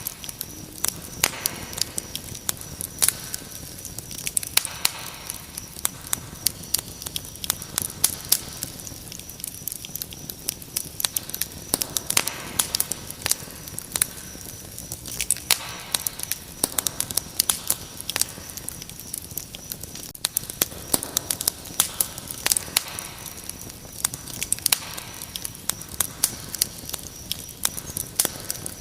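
Wood fire crackling with frequent irregular sharp pops, over a steady high-pitched cricket trill.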